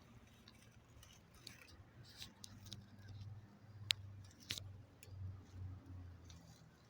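Faint scattered clicks and crackles, one sharp click about four seconds in, over a quiet uneven low hum.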